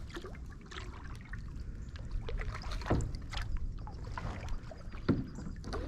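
Kayak paddling: paddle strokes in the water with a few sharp knocks and splashes, the strongest about three seconds in and again near five seconds, over a low wind rumble.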